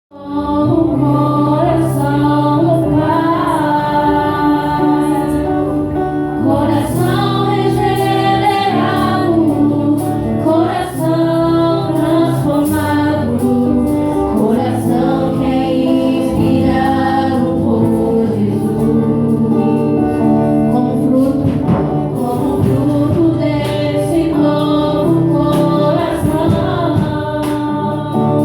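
Gospel music: a choir singing, with female voices prominent, loud and continuous.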